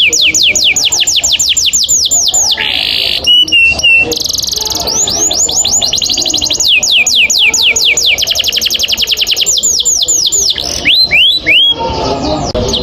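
Canary singing a long rolling trill of rapid downward-sweeping whistles, about seven a second. The roll breaks briefly a few seconds in for a buzzy note and a short held whistle, then rolls on.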